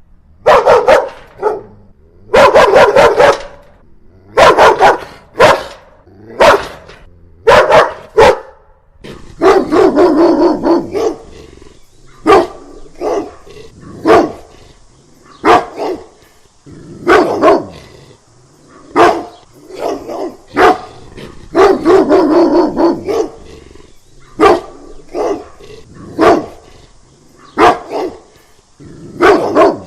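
Dog barking angrily in bouts throughout: single loud barks alternating with rapid runs of barks.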